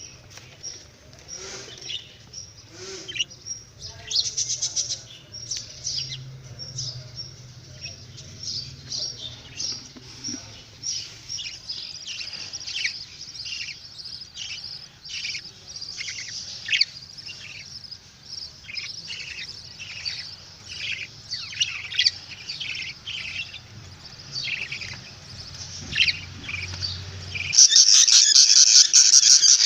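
Budgerigars chirping and chattering in many short, quick calls over a faint low hum. About 28 seconds in, the sound switches abruptly to a much louder, denser high-pitched chatter.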